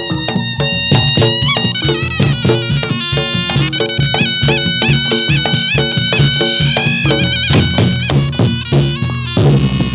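Reog Ponorogo gamelan playing jathilan music: a slompret, a reedy double-reed horn, plays a bending, wavering melody over drums and quick repeated tuned gong strokes.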